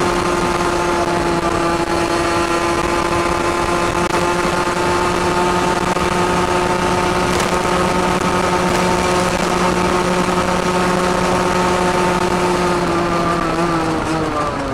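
Derbi Senda DRD 50 cc two-stroke single through a Turbokit sport exhaust, holding steady high revs while cruising. About thirteen seconds in, the revs start to fall as the throttle is rolled off.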